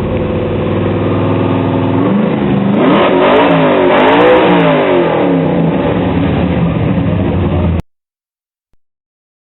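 Car engine running steadily, then revved up and down several times before settling again; the sound cuts off abruptly near the end.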